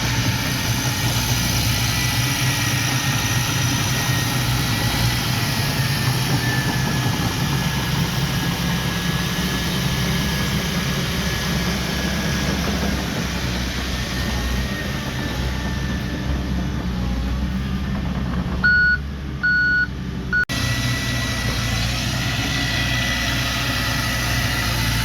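Heavy diesel earthmoving machinery running steadily, with a high whine over the engine. About three quarters of the way in, a reversing alarm beeps three times.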